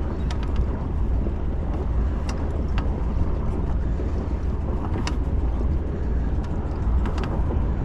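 Sailing yacht's inboard engine running steadily as the boat motors under way, a low even rumble, with a few light clicks and knocks.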